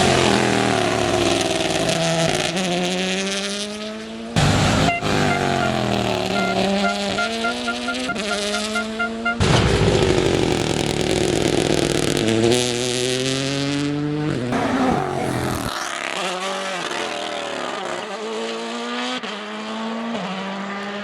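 Rally car engines revving hard, the pitch repeatedly climbing and dropping through gear changes as the cars pass, with the sound changing abruptly a few times.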